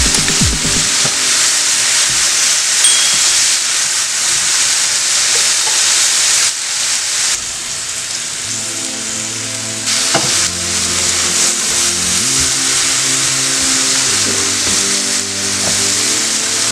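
Julienned potatoes and fish cake strips sizzling as they stir-fry in a pan, a steady hiss. Background music plays underneath.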